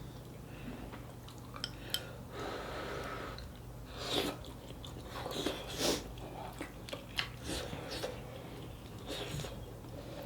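A person chewing and eating close to the microphone, with scattered small clicks and soft bursts of mouth noise.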